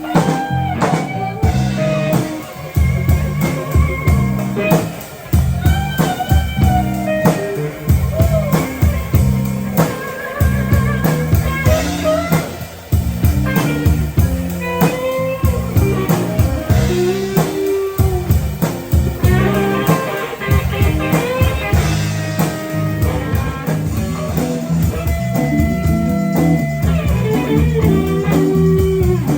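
Blues-rock music from a band: electric guitar playing lead lines with bent notes over a steady bass line and drum kit.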